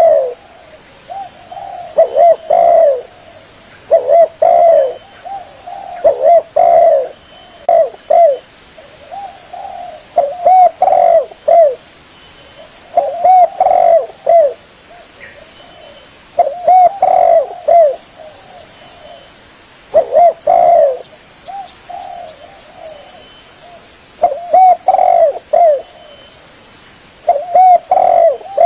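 Spotted dove (tekukur) cooing: short phrases of a few notes, repeated every two to four seconds, as played for a dove lure call.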